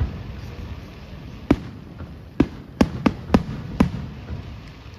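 Fireworks bursting: six sharp bangs, the first about a second and a half in, the rest in quick succession over the next two seconds or so.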